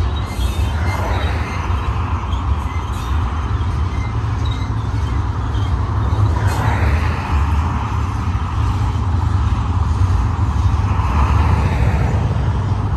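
BNSF double-stack intermodal freight train rolling past: a steady low rumble of wheels on rail, with higher rolling noise swelling and easing every few seconds as the cars go by.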